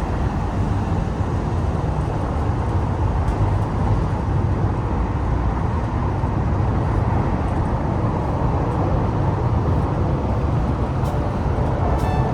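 Steady low rumble of an express train running at speed, heard from inside the passenger car. Faint music comes in near the end.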